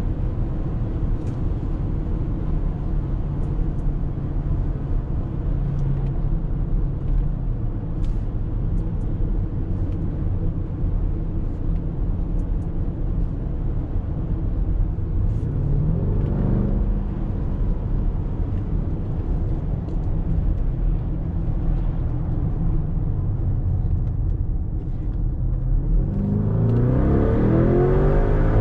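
Lamborghini Urus's 4.0-litre twin-turbo V8 heard from inside the cabin while cruising, a steady low drone under tyre and road noise. About halfway through the engine note briefly rises, and near the end it climbs strongly and gets louder as the car accelerates.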